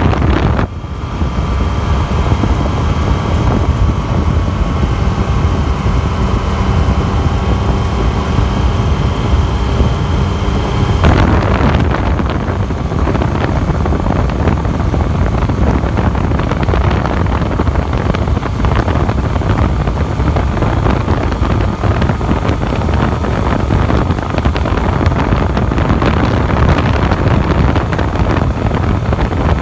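A Yamaha FZ-09's inline three-cylinder engine running at a steady cruising speed, buried under heavy wind rush on the microphone. A steady engine hum is heard for the first third, then about eleven seconds in it drops out and the wind rush grows louder and fuller.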